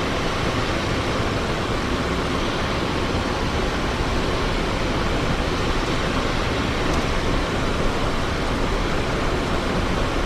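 Steady rush of cockpit noise in a Cessna Citation XLS business jet in the climb: airflow over the cockpit and the jet engines running at climb power.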